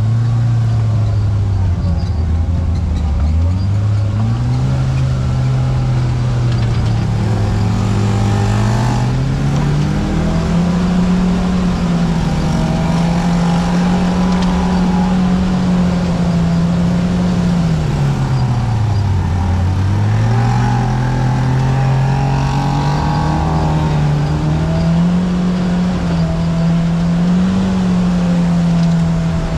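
Side-by-side UTV engine running under way, its pitch climbing over the first ten seconds, holding steady, dipping sharply about two-thirds of the way through, then climbing again.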